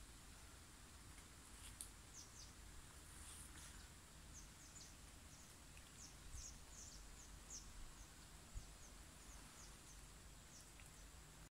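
Near-silent forest with faint, high bird chirps: short downward-sliding notes repeated about once or twice a second from about two seconds in until near the end.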